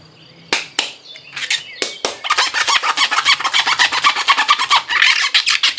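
Plastic packaging being handled and crinkled: a few separate crackles, then dense rapid crinkling for the last three or four seconds that stops abruptly.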